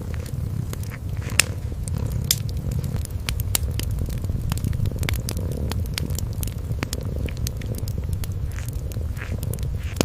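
Cat purring, a steady low rumble, over a wood fire crackling with scattered sharp pops, the loudest about a second and a half and two seconds in.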